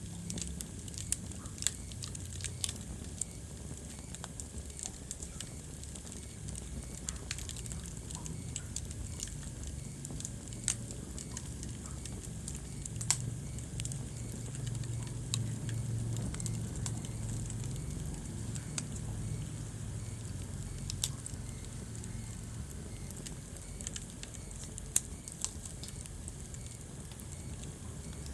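Wood fire crackling, with irregular sharp pops and snaps over a low steady rumble that swells slightly midway.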